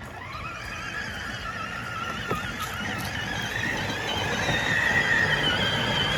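Electric gear motors of a Power Wheels ride-on toy truck, run on a 20 V battery adapter, whining steadily with a wavering pitch and growing louder as the truck drives closer, over the rumble of its plastic wheels on the ground.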